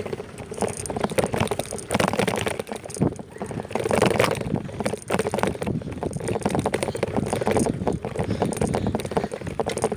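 Riding noise from a bicycle on the move: a dense, continuous clatter and rattle with wind buffeting the microphone.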